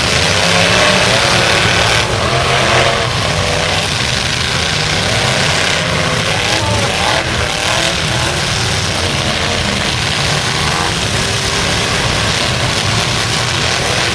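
Several demolition-derby pickup truck engines running and revving together, loud and continuous, their pitches rising and falling as the trucks accelerate and back up.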